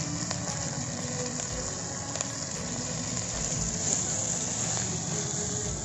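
Steady sizzling hiss of ponnaganti greens frying in a clay pot over a wood fire, with a few faint light knocks as the food is stirred.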